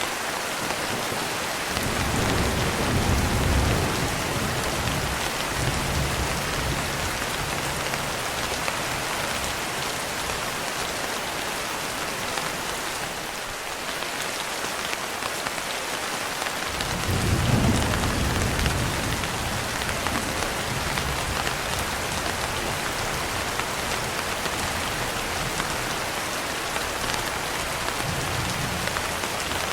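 Steady heavy rain with two low rolls of thunder, one about two seconds in and another around seventeen seconds in, each rumbling for several seconds before fading back into the rain.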